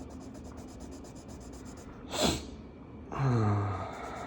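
A quick sharp breath through the nose about two seconds in, then a short low "mm" hum falling in pitch, over the faint scratching of a marker colouring on paper.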